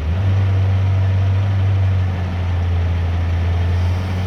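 Side-loader truck's engine running at a steady working speed, a low drone that comes up suddenly at the start and holds level while the container is being lowered off the truck.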